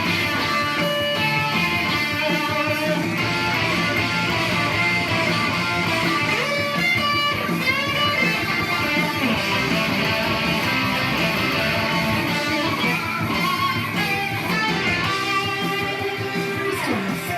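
Electric guitar playing a rock solo over a full band, with the notes bent and wavering around the middle.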